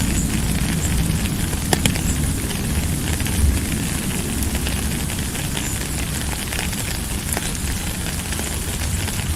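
Steady rain with a low rumble underneath and scattered sharp ticks of drops.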